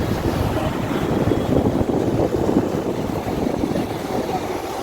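Steady rumbling vehicle noise.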